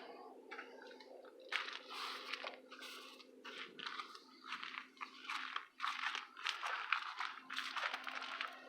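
Footsteps crunching on loose ground, a quick irregular run of steps, over a steady low hum.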